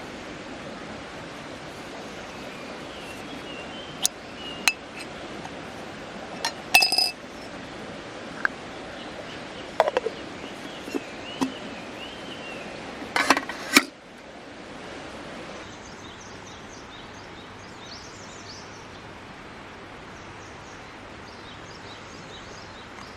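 A handful of sharp clinks and taps, like metal or glass objects knocked together, over a steady rushing of river water, with birds chirping. About fourteen seconds in the clinks stop and only the water and faint, high bird chirps remain.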